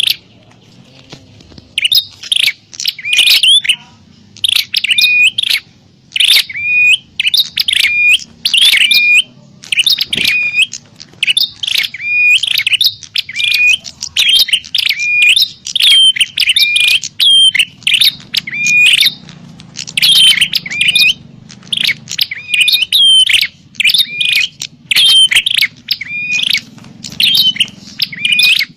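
Prinia (prenjak) calls: loud, sharp, chirping notes repeated two to three times a second in runs broken by brief pauses. These are the agitated, territorial 'fighting' calls used as a lure to draw in wild prinias.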